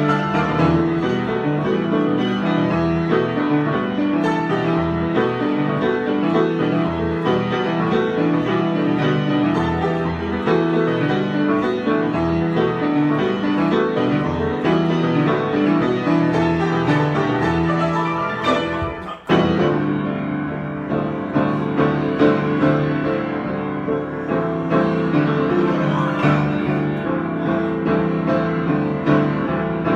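Piano improvisation, with steady chords and melody notes, and a brief break a little past halfway before the playing resumes.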